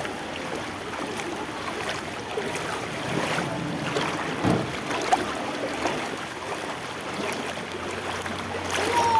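Steady rushing noise of floodwater.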